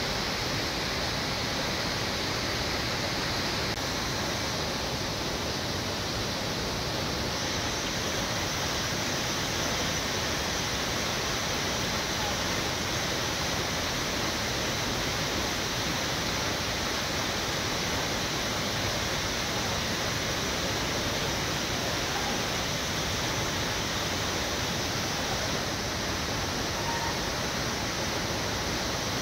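Waterfall's steady rush of falling water, an even, unbroken roar with no change in level.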